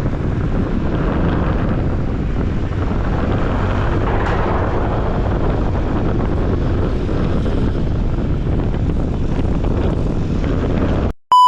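Steady wind on the microphone and road noise from a Honda PCX scooter under way. Near the end it cuts off abruptly and a steady electronic beep tone begins.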